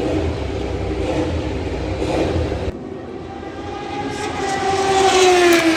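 Racing motorcycle passing at speed: its engine note swells and then drops in pitch as it goes by. Before it, a steady rumble cuts off abruptly about three seconds in.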